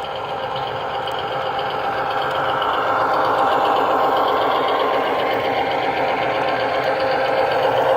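O scale model diesel train running along the track, its motor, gearing and wheels making a fine rapid mechanical rattle. It grows louder over the first few seconds as the train draws near, then holds steady.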